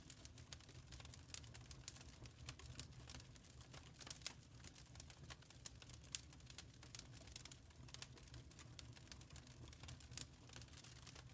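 Wood fire crackling quietly in a fireplace: irregular small snaps and pops over a low, steady rumble.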